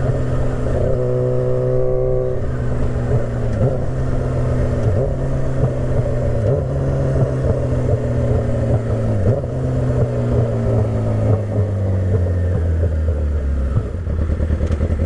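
2008 Yamaha YZF-R6's inline-four engine running steadily while riding, its pitch slowly easing down in the second half and dropping lower near the end as the bike slows.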